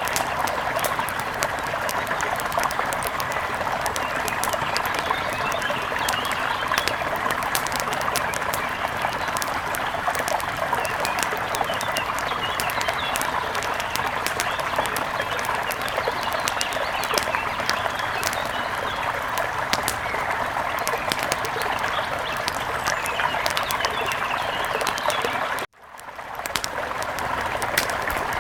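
Steady rush of a mountain river with a crackling wood fire popping over it and faint bird chirps. Near the end the whole sound cuts out for an instant and fades back in.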